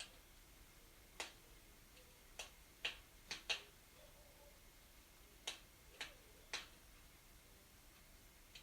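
Wood fire burning in a fireplace, crackling: about eight sharp, irregular pops over a faint steady hiss.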